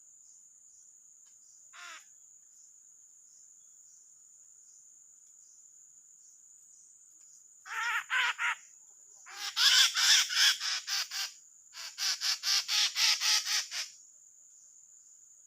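A drongo caught on birdlime giving harsh, rapidly repeated calls in three runs over the second half, with one short call about two seconds in. A steady high insect drone runs underneath.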